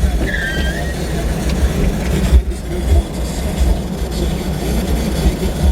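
Storm wind gusting over the microphone as a heavy, uneven low rumble, with faint radio speech underneath.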